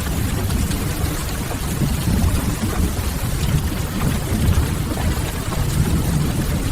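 Steady rain with a deep, even rumble beneath it, mixed with scattered faint crackles of burning firewood.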